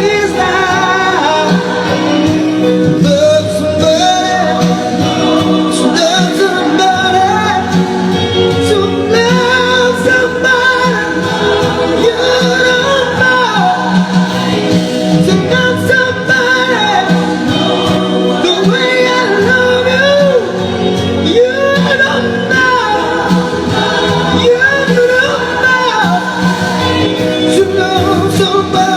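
A man singing a slow song over instrumental accompaniment, his voice gliding and wavering on held notes.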